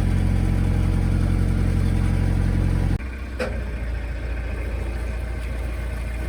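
Narrowboat engine running steadily. About three seconds in, the sound drops abruptly to a quieter low hum, with a single click shortly after.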